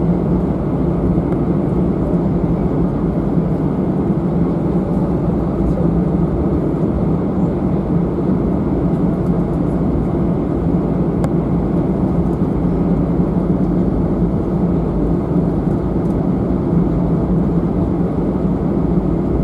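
Steady, unchanging drone inside the cabin of an Airbus A319-111 airliner on the ground before takeoff, a deep hum beneath a broad rush of engine and air-conditioning noise.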